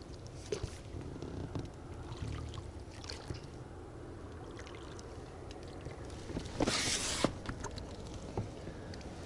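Handling noises from an inflatable boat on the water: scattered knocks and clicks over a low rumble, with a short, louder rush of noise about seven seconds in.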